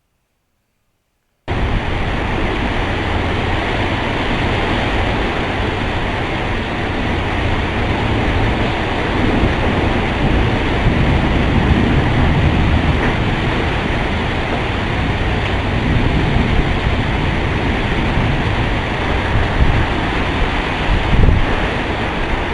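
Heavy wind-driven rain pouring down, with wind gusting across the microphone as a low rumble under the steady rush. It starts abruptly about a second and a half in.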